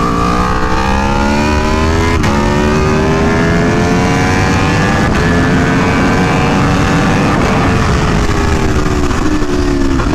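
2017 Aprilia Tuono V4 1100 Factory's V4 engine pulling hard under acceleration, its note climbing and dropping at upshifts about two and five seconds in. It then falls away over the last few seconds as the bike slows, with a steady wind rush underneath.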